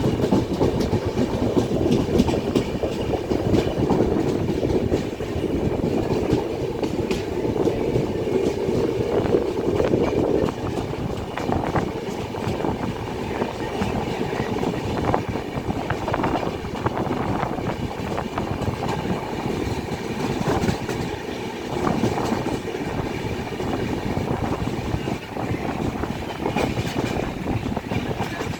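Train running on rails, with the wheels clattering over the rail joints as it enters the station. The low rumble is heavier for the first ten seconds or so, then eases a little.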